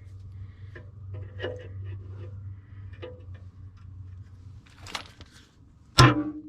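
Small metallic clinks over a steady low hum, then about six seconds in a loud hammer blow on steel that rings out, as a retaining pin is driven into an excavator bucket tooth.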